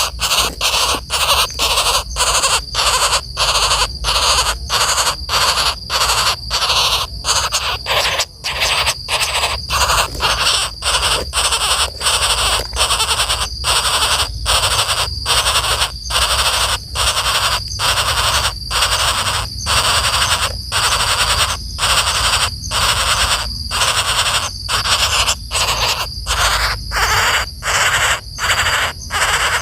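Woodpecker giving harsh, buzzy calls, repeated about one and a half times a second without a break: an agitated call at its disturbed nest.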